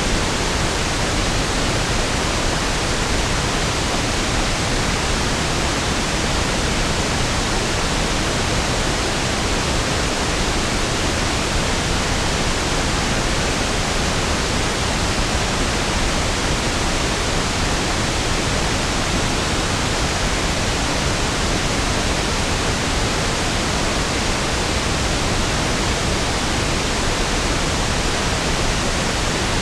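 Steady pink noise (1/f noise): an even, unchanging hiss spread over the whole range with equal energy per octave, smoother and deeper than white noise.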